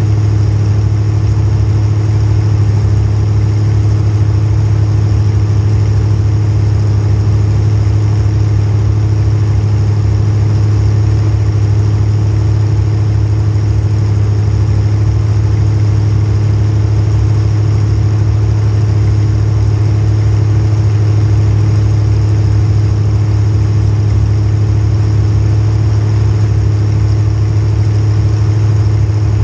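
Small-block Chevy V8 running at a steady speed: a constant low drone that holds the same pitch, with no revving and no crashes.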